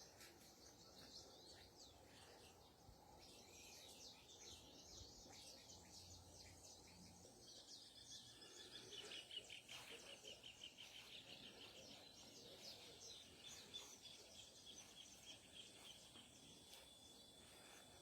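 Faint birdsong: many small birds chirping, with a quick trill about nine seconds in, over a steady thin high tone.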